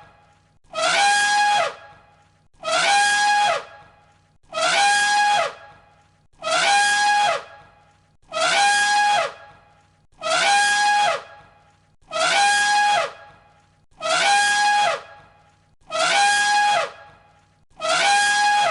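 One elephant trumpet call looped over and over, about one call every two seconds. Each call lasts about a second, holding one high pitch before dropping sharply at its end.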